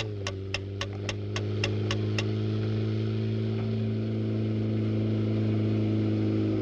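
A car engine drone on a film soundtrack: its pitch drops and then holds steady. Over the first two seconds come about nine sharp ticks, a little under four a second.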